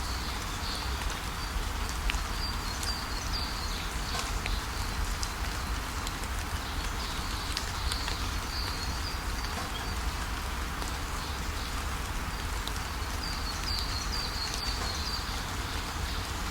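Steady rain falling, with scattered drop ticks, and short high bird chirps coming in three brief runs.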